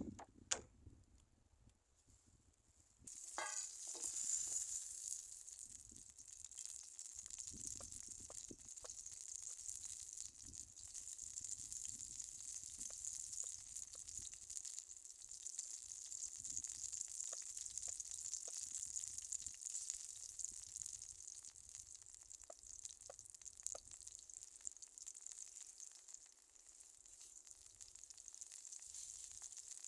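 Food frying in a hot pan, a steady sizzle that starts suddenly about three seconds in, as food goes into the hot fat. A knock comes right at the start, and a few light clicks sound over the sizzle.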